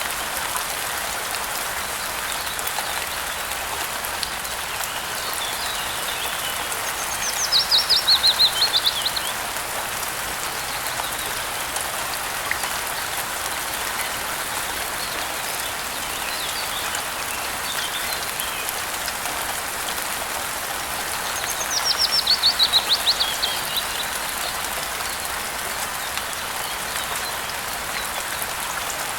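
Steady rain hiss with a songbird singing twice, at about 8 seconds and at about 22 seconds. Each song is a fast trill of rapid notes falling in pitch over about two seconds, and these are the loudest sounds. Fainter chirps come in between.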